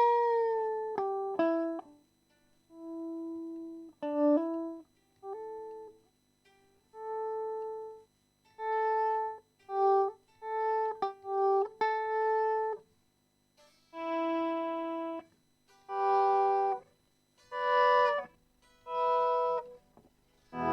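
Electric guitar playing a slow single-note melody through an amp, many notes swelling in gradually with a volume pedal instead of starting with a sharp pick attack, with short silences between phrases.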